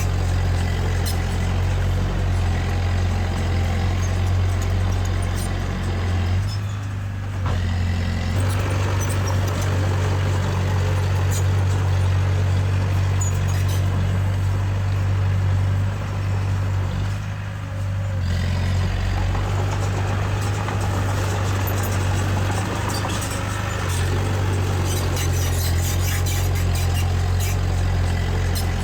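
Heavy diesel earthmoving machinery running steadily with a strong low hum. It eases off briefly twice, about a quarter and about three-fifths of the way through, and faint clanks run over the top.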